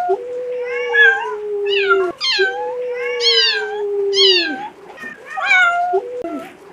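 Several animal calls overlapping: two long, steady, slightly falling calls of about two seconds each, with shorter rising-and-falling calls over them.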